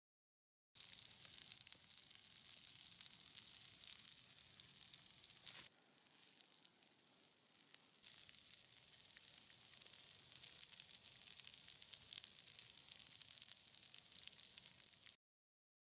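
Sliced potatoes and onions frying in a pan on a small wood stove: a faint, steady sizzle with fine crackles. It starts abruptly about a second in and cuts off suddenly near the end.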